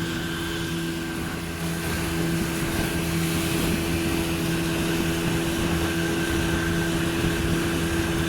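Yamaha 30 hp two-stroke outboard motor running steadily on a Progress-4 boat, a constant engine tone under a steady hiss, getting a little louder about two seconds in.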